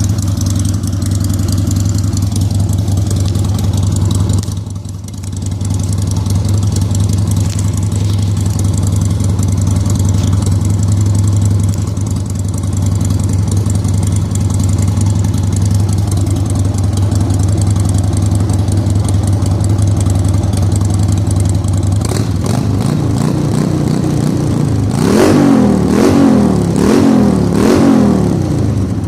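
A vehicle engine idling steadily through its exhaust, then revved in several quick blips near the end, the pitch rising and falling with each.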